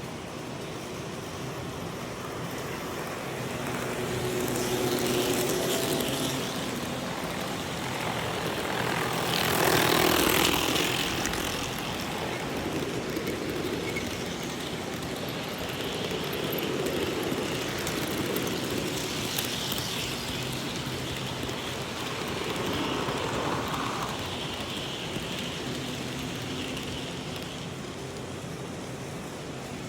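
HO scale model freight train running fast past the microphone, its small electric motor and wheels on the track making a rushing whir that swells and fades several times, loudest about ten seconds in.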